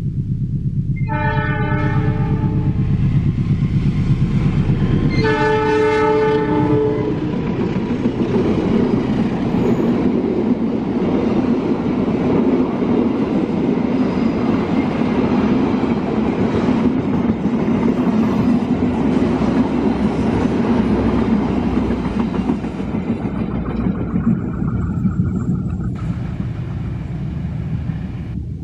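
Diesel locomotive horn sounding twice, about a second in and again about five seconds in, each blast about two seconds long. Then the steady rumble of the passenger coaches' wheels running past on the rails close by.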